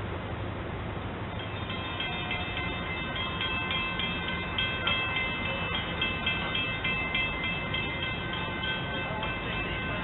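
A railroad bell starts ringing about a second and a half in, a run of rapid, evenly repeated metallic strikes, over a low steady rumble.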